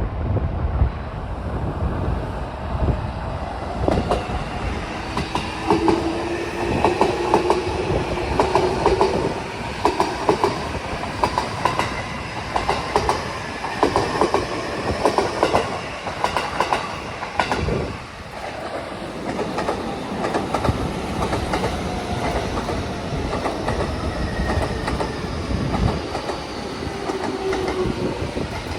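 Keihin-Tohoku Line E233-series electric commuter train moving along the station platform. Its wheels clack rapidly over the rail joints for much of the first half, thinning out from about 17 s, over a faint whine from the traction motors. Wind buffets the microphone throughout.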